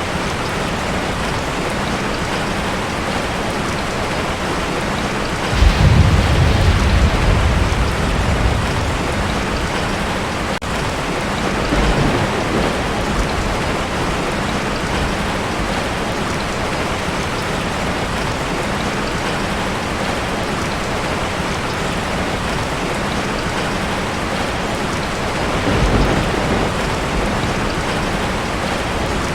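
Heavy rain on a tin roof, a steady hiss, with a sudden clap of thunder about six seconds in that rumbles on for a few seconds, and two fainter rumbles of thunder later.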